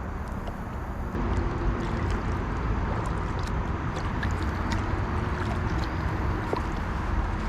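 Water splashing and gurgling around a kayak on the move, with many small drips and knocks; it gets louder about a second in.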